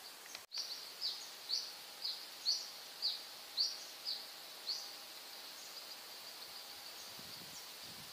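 A bird calling with a run of short, sharp high chirps, about two a second, that stops about five seconds in, over a steady faint high-pitched hum. The sound cuts out for an instant about half a second in.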